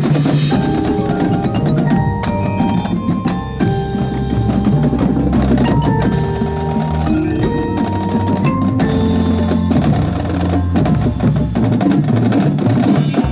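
Percussion ensemble playing, with marimba notes struck in quick succession over a dense low accompaniment.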